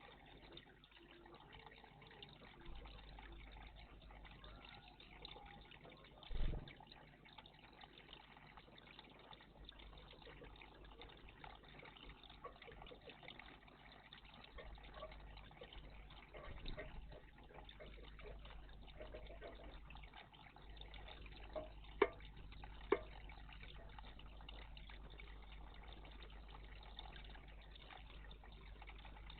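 Faint, steady trickle of water in a garden bird bath, with a dull thump about a quarter of the way in and two sharp clicks about a second apart near the end.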